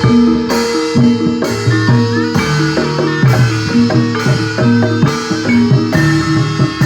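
Javanese gamelan music of the kind played for barongan: metal mallet instruments playing repeating pitched notes over drum strokes, with a strong beat about once a second.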